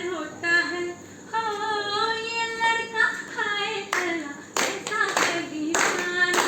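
A voice singing a melody, with hand clapping joining in about four seconds in and continuing over the singing.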